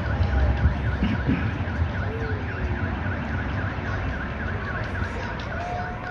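Car alarm sounding with a fast, evenly repeating warble, over a low background rumble.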